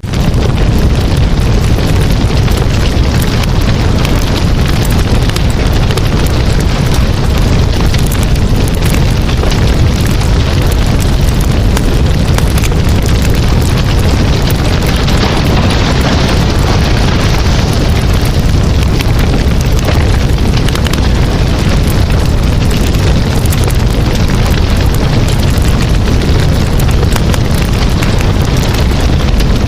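Campfire burning: a steady rush of flame with a heavy low rumble and frequent wood crackles and pops.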